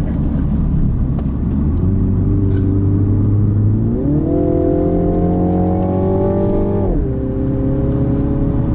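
Turbocharged four-cylinder engine of a MINI JCW Countryman pulling hard under acceleration, heard from inside the cabin, revs climbing as it drives uphill. About four seconds in the pitch jumps up and keeps rising, then drops sharply about seven seconds in as the eight-speed automatic changes gear, and starts climbing again.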